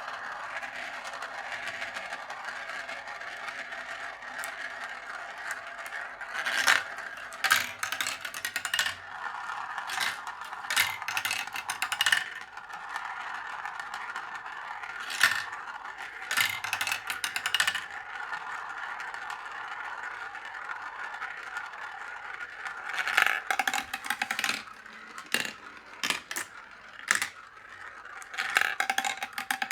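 Marbles rolling along a wooden marble run track in a steady rolling rattle, with clusters of sharp clacks as they drop and knock through the run.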